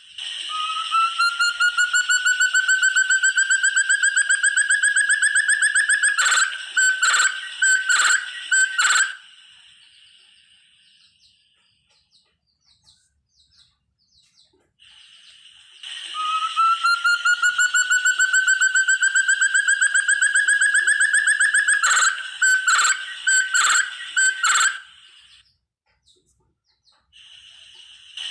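Call of a forest partridge (burung terung, puyuh hutan): a fast trill of whistled notes that climbs slowly in pitch for about five seconds, ending in four loud separate notes. After a pause of several seconds the same phrase repeats, and a third begins at the very end.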